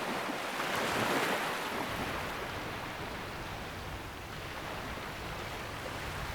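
Sea waves washing onto the shore, a steady rush that swells briefly about a second in.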